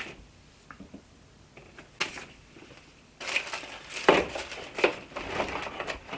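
Plastic packaging crackling and crinkling as it is handled. It is almost quiet at first, with one short rustle about two seconds in, and the crackling sets in loudly about three seconds in.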